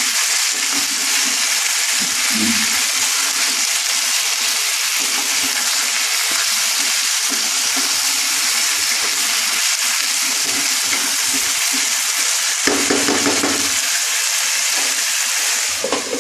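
Chicken and vegetables sizzling in oil in a frying pan while being stirred and turned with a wooden spatula. Near the end the sizzle drops as a glass lid is set on the pan.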